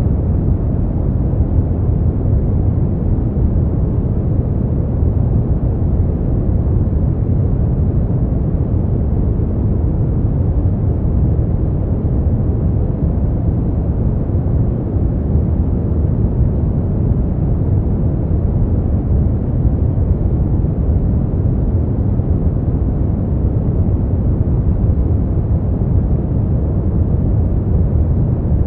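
Steady brown noise: a constant, even, deep rumbling hiss, strongest in the bass and falling away toward the treble, with no changes or events.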